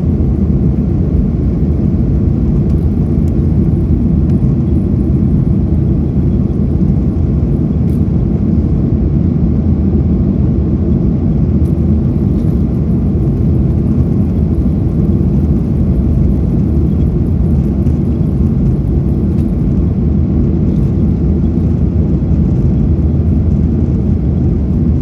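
Steady, loud low rumble of a jet airliner's engines and rushing air heard from inside the cabin during the climb after takeoff.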